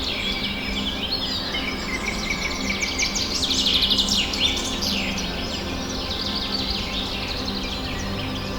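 A dense chorus of many birds chirping and trilling at once, with rapid repeated notes that grow busiest and loudest about three to four seconds in. A low steady hum runs underneath.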